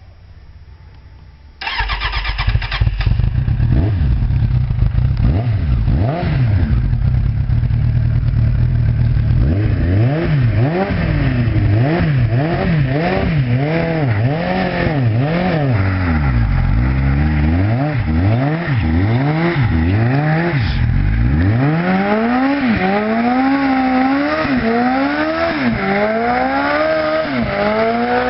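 Motorcycle engine starting up suddenly about two seconds in, then revved again and again, its pitch rising and falling roughly once a second.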